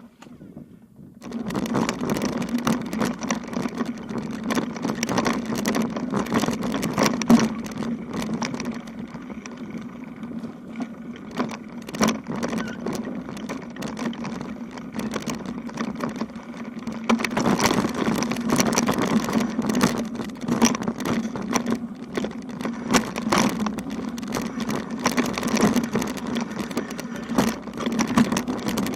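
Rolling rumble and rattle of a loaded touring bicycle on a rough road, with many small knocks and clicks, starting suddenly about a second in.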